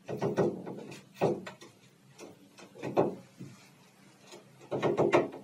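Woodpecker pecking at a window, loud sharp knocks that come in short bursts roughly once a second.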